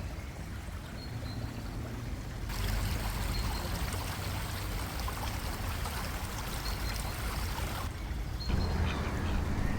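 Spring water flowing and splashing, a steady rushing that gets fuller and brighter about two and a half seconds in and changes abruptly again near the end, over a low rumble.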